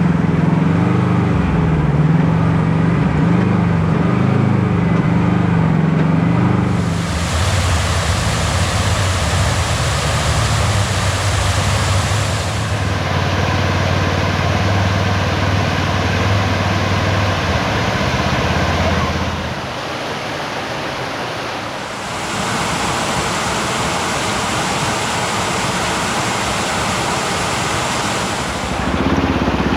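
A side-by-side UTV's engine is running for the first several seconds. Then a steady rushing of falling water from a waterfall takes over, at first with a low engine hum beneath it. The engine is heard again near the end.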